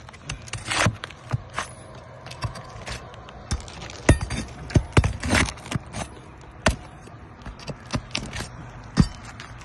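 Hand tools working asphalt roof shingles: irregular sharp knocks and clacks with a few short scrapes as shingles are pried up.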